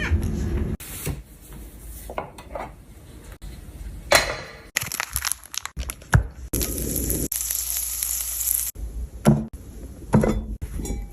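Cooking sounds in a string of short cuts: utensils clinking and knocking against pots and dishes, with food sizzling in a hot pan about five to nine seconds in.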